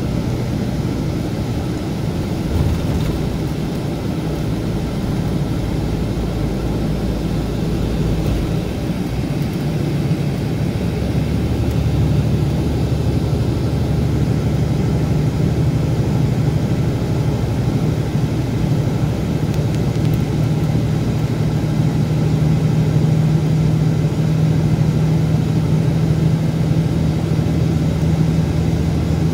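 Scania K410B coach's diesel engine running steadily with a deep, even drone, growing a little louder about a third of the way in.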